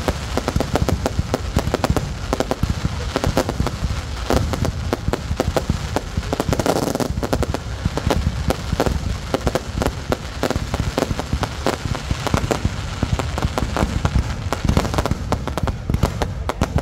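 Fireworks display going off continuously: a dense, rapid series of booming bursts and crackles with no let-up.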